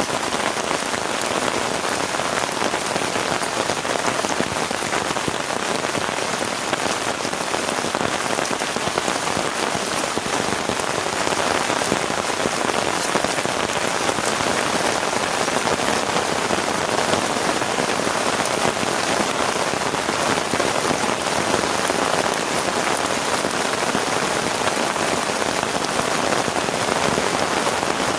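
Heavy rain falling steadily, a dense patter of drops hitting a surface without letting up.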